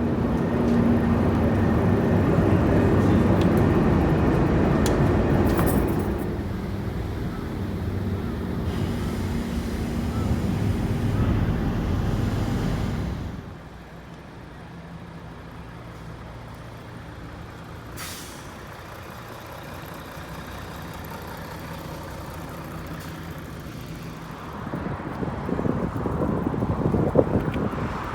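A large engine running steadily, loud for the first half and then dropping suddenly to a quieter steady hum, growing louder again near the end.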